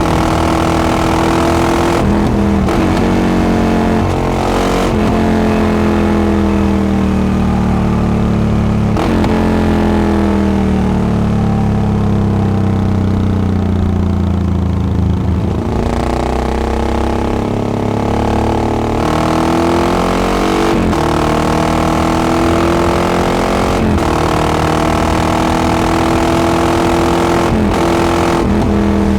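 Yamaha XT660X single-cylinder engine through a Devil carbon exhaust, pulling through the gears: its pitch climbs, breaks off and drops back at each shift, with one long easing-off and slowing in the middle before it builds again through several more upshifts.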